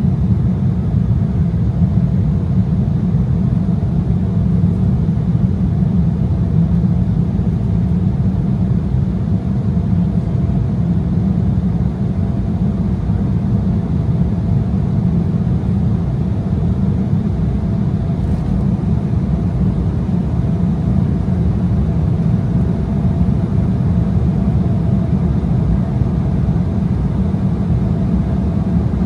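Steady cabin noise of an Embraer ERJ-175 in flight: a deep, even rumble from its GE CF34-8E turbofan engines and the rushing air around the fuselage, with a faint steady hum above it.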